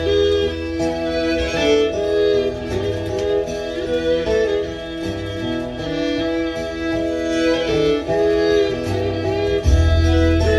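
Music played from a vinyl record on a Technics SL-B2 turntable: a roots-style song with fiddle and guitar, playing steadily.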